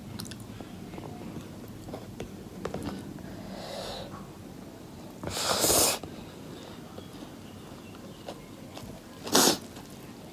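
A person sniffing hard through the nose while eating extra-spicy instant noodles: a long noisy sniff about halfway through and a short sharp one near the end, with faint chewing and small clicks between.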